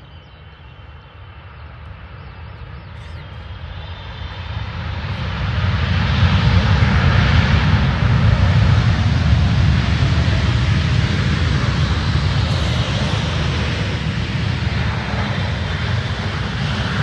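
Jet engines of a Boeing 777 airliner on its landing, a deep rumble with a hiss over it that grows louder for about six seconds as the plane comes close, then stays loud and fades only a little.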